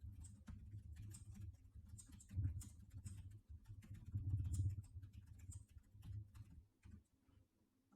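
Faint, scattered clicks of a computer mouse and keyboard over a low, uneven rumble.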